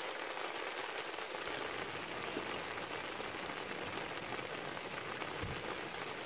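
Steady rain falling: an even hiss with scattered faint drop ticks, and one soft low thud about five seconds in.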